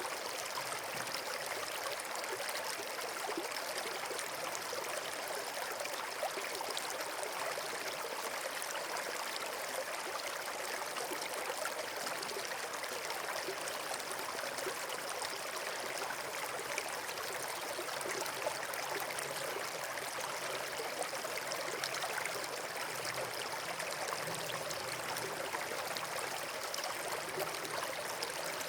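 Steady rushing of running water, like a stream or small waterfall, even and unbroken throughout.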